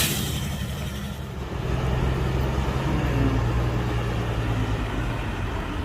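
Heavy diesel engine of earthmoving machinery running steadily, its note getting louder about a second and a half in. A sharp click comes at the very start.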